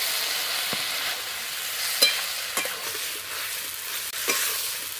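Mixed vegetables coated in ground mustard paste frying in a metal wok over a wood fire, stirred with a metal spatula: a steady sizzling hiss broken by a few sharp clicks and scrapes of the spatula against the pan.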